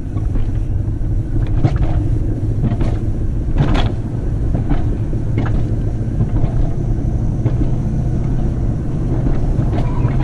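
Mountain coaster cart rolling along its track: a loud steady rumble, with short sharp sounds every second or so.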